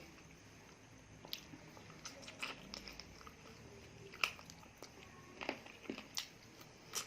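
Close-miked eating: chewing with sharp crunching bites scattered irregularly through, the loudest about four seconds in.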